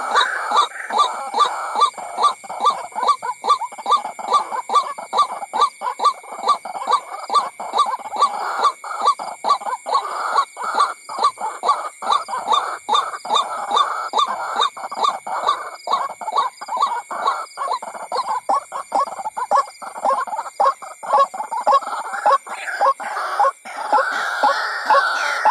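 White-breasted waterhen calls: a fast, continuous run of harsh repeated notes, about two to three a second, from a lure recording played to draw the birds in.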